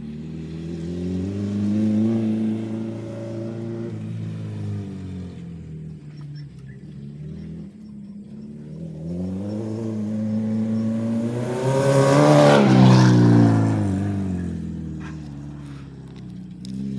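Acura RSX four-cylinder engine revving on a dirt track: its pitch climbs to a peak about two seconds in and eases off, then climbs again to its loudest and highest about twelve to thirteen seconds in before dropping away.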